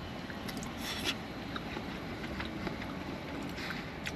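Quiet eating sounds over a steady low hum: faint short clicks and soft chewing, a few around a second in and again near the end.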